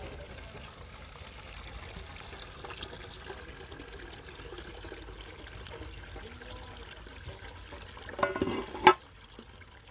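Water running steadily. About eight seconds in comes a short clatter that ends in a sharp knock, the loudest sound.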